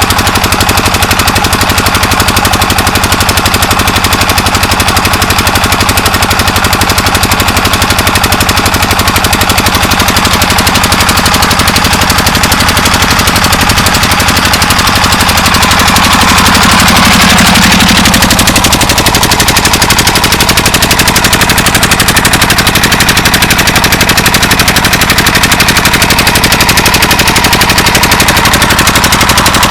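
Diesel engine driving a tubewell pump, running steadily at a rapid, even firing beat, loud and close. It grows briefly louder a little past halfway through.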